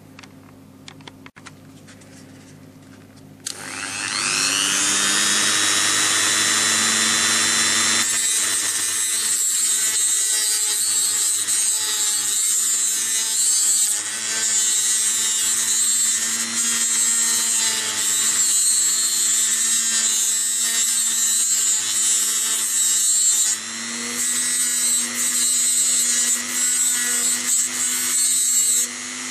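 Dremel rotary tool spinning up about three and a half seconds in, then running at high speed, trimming protruding nylon bolt ends flush on a 3D-printed part; its tone shifts about eight seconds in and dips briefly near twenty-three seconds as the load changes.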